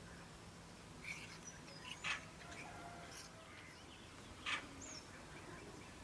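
Faint bird chirps in quiet background ambience, with two short knocks about two seconds and four and a half seconds in.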